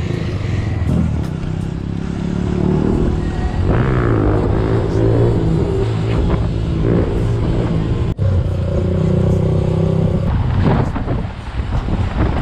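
Motor vehicle engines running in city traffic, a steady hum that shifts in pitch a few times, with a brief sharp dropout about eight seconds in.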